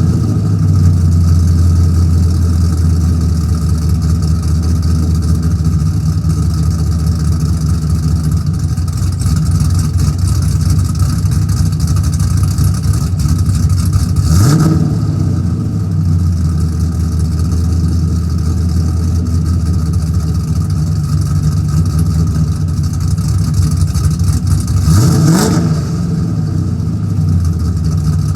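2002 Camaro SS LS1 V8 with a Stage 3 cam, long-tube headers and axle-dump exhaust, idling after a cold start. The throttle is blipped twice, about halfway through and again near the end, and the revs rise briefly before settling back to idle.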